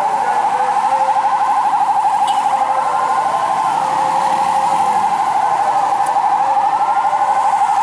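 Several fire truck sirens sounding at once: one fast-warbling siren held at a steady pitch, with other sirens wailing up and down over and under it.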